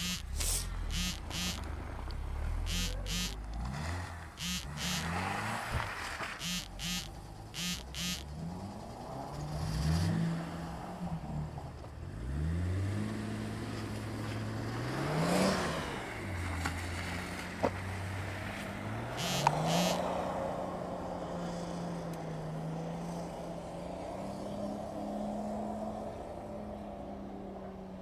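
Car engines revving on a snowy lot: the pitch climbs and drops again and again as the cars are driven sideways with the wheels spinning, then settles into a steady drone. A run of short sharp clicks comes in the first several seconds.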